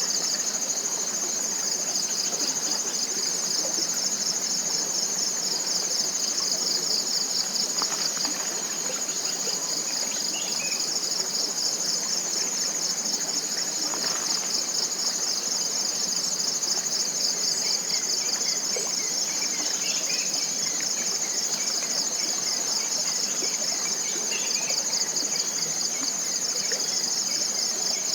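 Steady chorus of forest insects, a high, fast-pulsing buzz, with a few faint bird chirps scattered through it.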